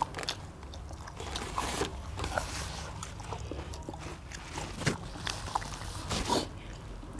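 Close-miked biting and chewing of roast quail, with irregular crunches and sharp clicks.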